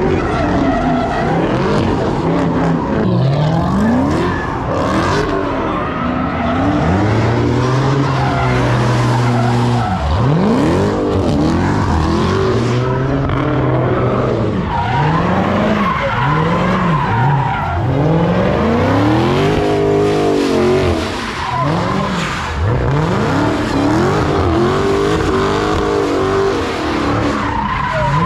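Car engines revving up and down over and over while doing donuts, tires squealing and skidding on the pavement. The revs climb and fall roughly every one to two seconds, with one steadier held rev a little before the middle.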